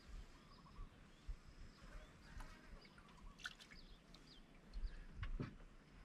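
Faint bird chirps and calls, several short ones scattered through, with a few soft clicks, the loudest about five seconds in.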